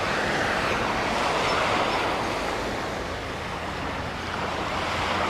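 Sea surf washing up the sand: a steady rushing that swells a little and then eases.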